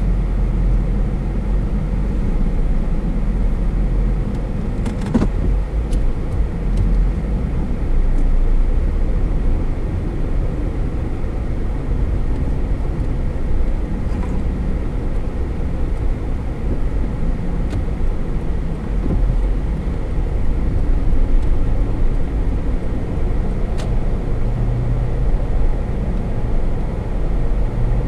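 A car driving on a road: a steady low rumble of tyres and running gear, with a few faint clicks.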